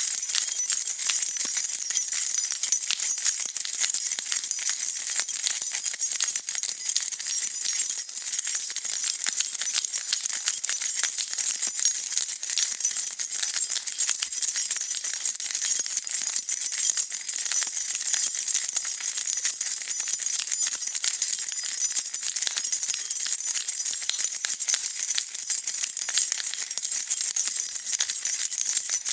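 A bunch of metal keys jingling without a break, a dense high-pitched rattle of small clinks at an even level.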